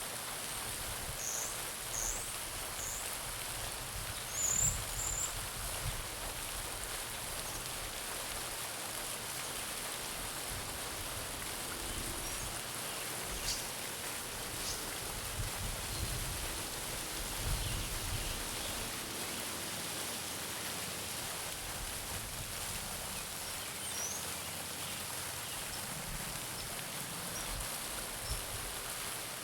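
Garden fountain splashing steadily into a pond, an even rain-like patter of falling water. A few high bird chirps sound faintly behind it, most of them in the first few seconds.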